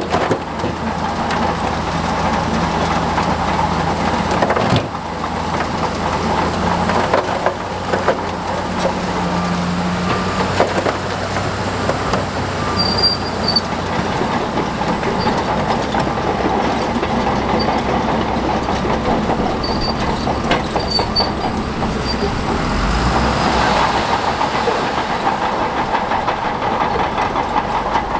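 Crawler earthmoving machine's diesel engine running under load, with a continuous rattle from its steel tracks.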